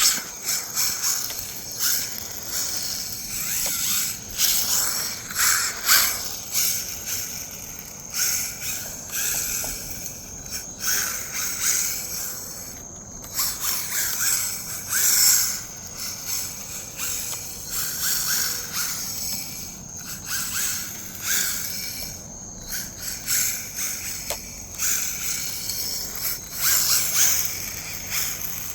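RC rally car driving on a dirt track, its tyres spinning and scrabbling on loose dirt with a high whine. The sound swells and fades repeatedly as the car speeds up, slides and turns.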